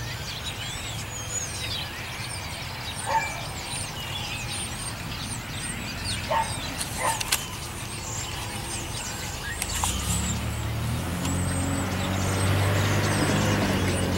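A flock of birds chattering, dense overlapping short high chirps. A motor vehicle's low engine drone swells in about two-thirds of the way through and becomes the loudest sound near the end.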